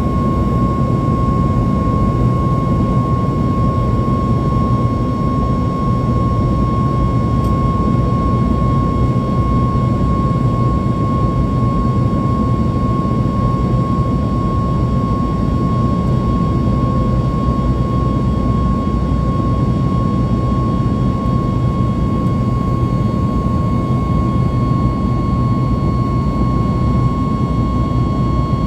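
Cabin noise in a Boeing 737 MAX 8 as its CFM LEAP-1B turbofans run at high thrust in the climb after takeoff: a steady, loud rush with a constant high tone above it.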